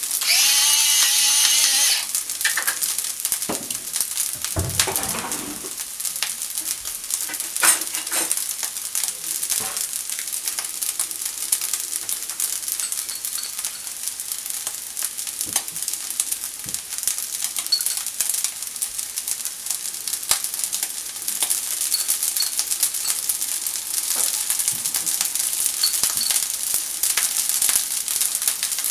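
Egg fried rice sizzling in a nonstick frying pan as it is stirred, a steady hiss with scattered light clicks. It is louder, with a thin whistling tone, for the first two seconds.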